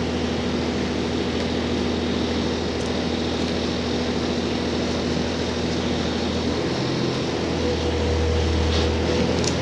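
Interior running sound of a JR Hokkaido H100 DECMO diesel-electric railcar: steady drone of the diesel engine and drive with rail noise. About seven seconds in the hum changes pitch and grows slightly louder as the power output shifts.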